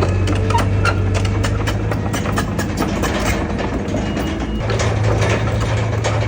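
Heavy diesel engine of a Komatsu bulldozer working, with steady clanking and rattling of steel parts throughout. The engine eases off a little past the middle and builds up again about a second later.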